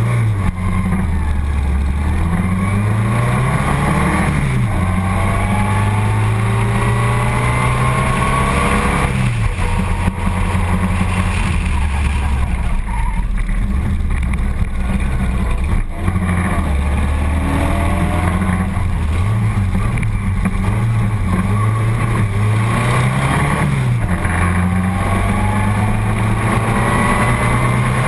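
Four-cylinder engine of a 1937 Delage racing car, recorded onboard on a hill-climb run: the engine pitch climbs and drops several times as the car accelerates, changes gear and lifts for bends.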